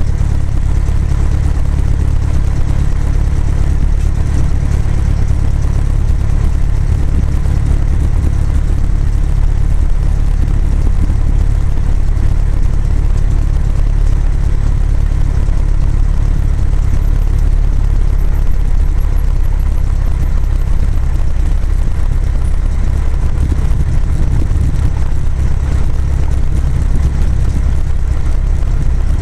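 Cessna 172's piston engine and propeller droning steadily and loudly at an even pitch throughout.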